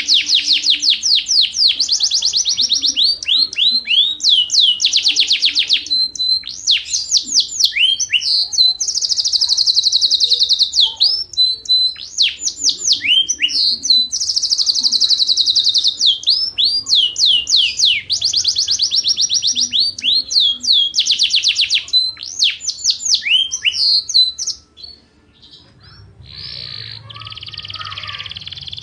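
Yorkshire canary singing a long, loud song of fast trills and rolling runs of repeated notes, with only brief breaks between phrases. Near the end the song stops and a softer, hissy sound follows.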